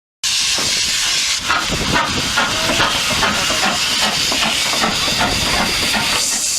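Steam locomotive hissing loudly: a steady rush of escaping steam that starts abruptly just after the opening silence.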